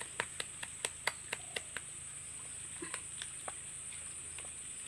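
Knife chopping on a board: quick sharp taps about five a second for the first two seconds, then a few scattered taps. A steady high insect drone runs underneath.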